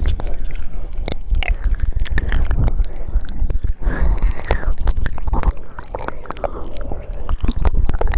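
ASMR mouth sounds made close to the microphone: a rapid run of wet clicks and smacks, with breathy, whispery hiss in the middle and heavy low thumps from breath on the microphone.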